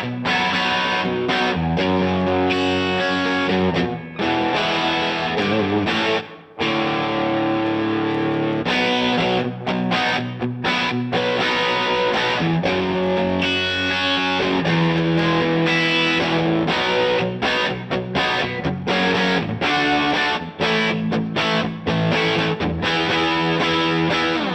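Electric guitar played through the DVII amplifier with an overdriven tone: held chords and single-note lines that change every second or so, with a brief break about six seconds in.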